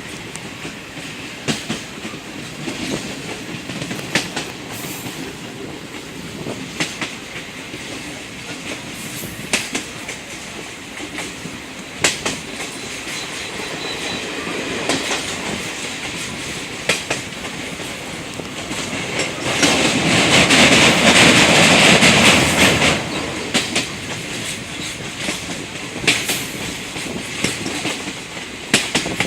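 Train running along the track, heard from on board: wheels clacking over rail joints at irregular intervals over a steady rumble, with a louder rushing swell lasting about three seconds about two-thirds of the way through.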